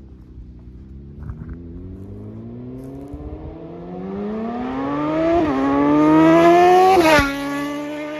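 2020 Suzuki GSX-R750's inline-four engine, with slip-on exhaust and flashed ECU, accelerating hard. Its pitch climbs steadily and louder, dips briefly once about five seconds in as it shifts up, then drops sharply about seven seconds in and runs on at a lower pitch.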